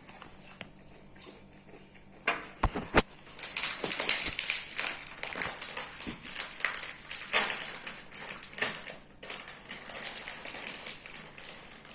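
Crinkly snack packaging and crisp chips crackling and crunching as the snack is handled and eaten. It starts quietly, with a couple of sharp clicks a little before three seconds in, then turns into dense, irregular crackling from about four seconds on.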